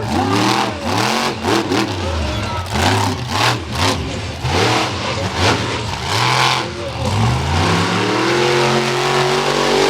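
Monster truck engine revving hard and repeatedly, its pitch swooping up and down with each stab of the throttle, then climbing and holding high near the end.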